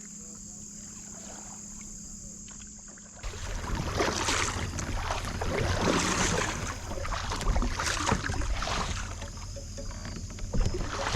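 Water sloshing and splashing around a kayak, with rustling and knocking, in uneven swells that begin suddenly about three seconds in. Before that, a steady high insect trill.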